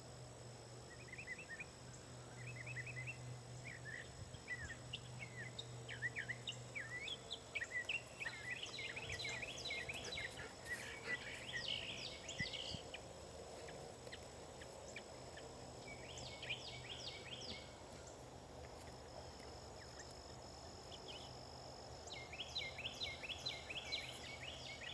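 Songbirds singing in bouts of quick chirping phrases, the busiest stretch about a third of the way in and again near the end, over a faint steady high-pitched tone.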